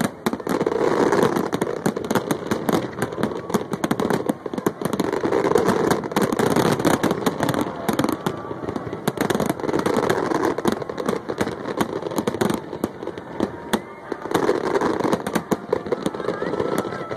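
Large fireworks display: a continuous barrage of bangs and crackling shell bursts.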